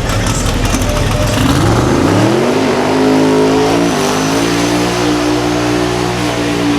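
Drag-racing truck's engine revving up over about a second, then held steady at high revs for about four seconds, with a brief dip in the middle.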